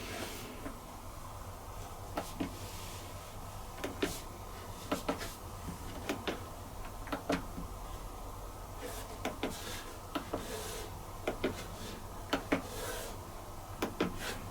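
Scattered soft clicks and taps, irregular and about one a second, from the buttons of a dishwasher's control panel being pressed and handled, over a faint steady low hum.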